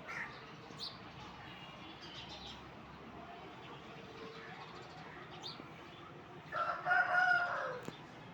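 A rooster crows once near the end, a single call of about a second and a half that drops in pitch as it ends, with faint bird chirps before it.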